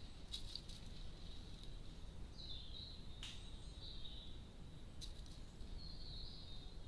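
Small songbird giving short high chirps and twitters a few times, over a steady low background rumble, with a few brief faint clicks.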